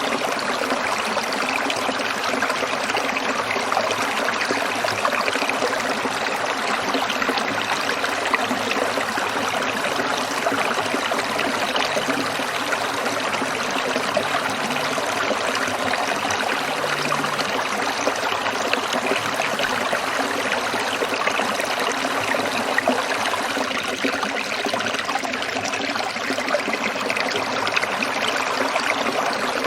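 A small stream trickling and burbling steadily over rocks.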